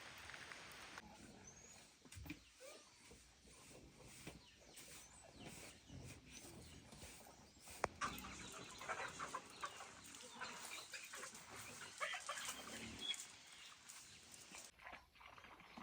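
Farm animals calling softly in short, scattered sounds, with light clicks and rustling; the calls come thickest in the second half.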